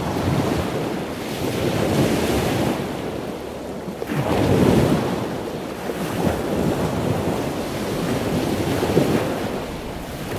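Ocean water noise like waves, a rushing sound that swells and fades every few seconds, with no voice or music.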